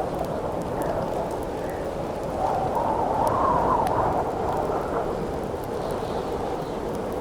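Howling wind over a crackling campfire: a steady rush of wind swells into a gust about two and a half seconds in and eases off again about two seconds later, while scattered sharp crackles and pops from the burning wood come through.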